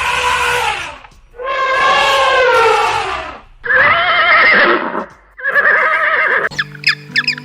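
An animal calling four times in long, wavering, pitched cries, like bleating or whinnying, with short gaps between them. Near the end, music with sharp bird squawks takes over.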